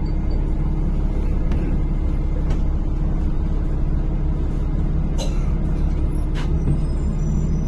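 NefAZ-5299 city bus heard from inside the cabin while driving: a steady low engine and road rumble, with a couple of brief rattles or clicks about five and six and a half seconds in.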